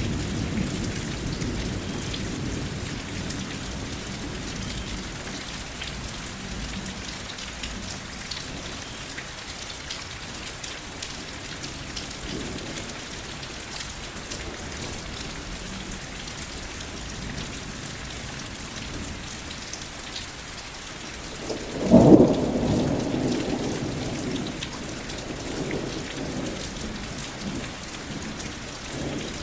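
Steady rain falling, with a low thunder rumble fading away at the start. About 22 seconds in, a loud clap of thunder breaks in and rolls off over the next few seconds.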